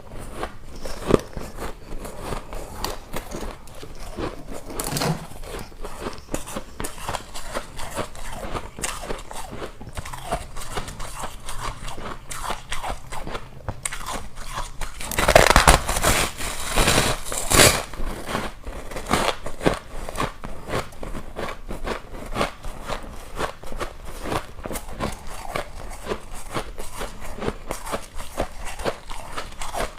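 Ice being bitten and chewed close to the microphone: a steady run of crisp crunches and crackles, with a louder burst of crunching a little past halfway through.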